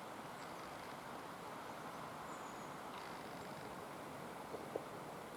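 Steady outdoor background noise with a few faint, high-pitched bird calls, and two light taps close together near the end.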